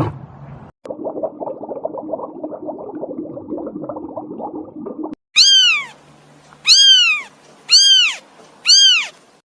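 A domestic cat meowing four times, each meow about half a second long and about a second apart, rising and falling in pitch. Before the meows there are a few seconds of a quieter, low rough rumble.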